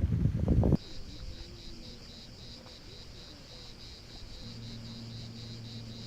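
Insects chirping in a steady pulsing rhythm, about four high chirps a second, after a loud low rumbling noise that cuts off abruptly under a second in. A faint low steady hum joins about four and a half seconds in.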